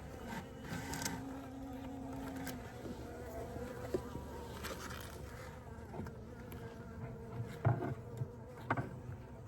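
Honey bees buzzing around an open hive, with one humming close by in the first couple of seconds. A few sharp knocks of wooden hive parts being handled come later, the loudest near the end.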